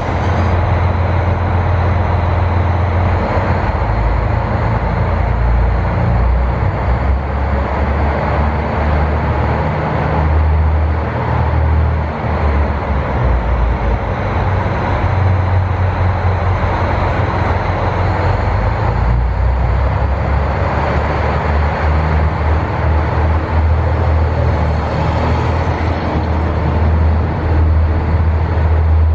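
KiHa 183 series diesel railcar's engine running steadily with a deep, loud hum.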